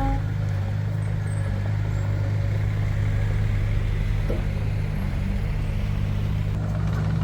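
Heavy diesel engine of an earthmoving machine running steadily, a deep drone with a slight change in pitch about halfway through.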